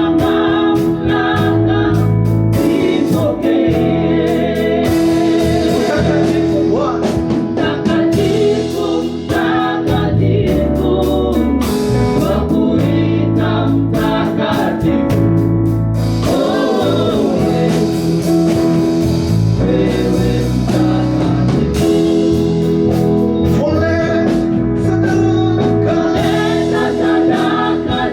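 Gospel praise-and-worship music: singing over a backing band, with a held chord and a changing bass line underneath.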